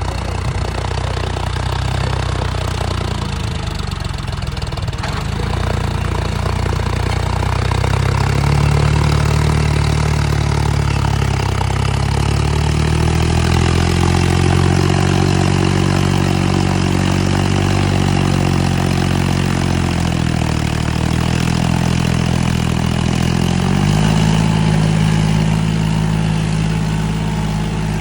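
John Deere 5050D tractor's three-cylinder diesel engine running under load, its pitch rising and falling several times as the engine speed changes: it climbs about halfway through, sags again around three quarters of the way, and picks up near the end.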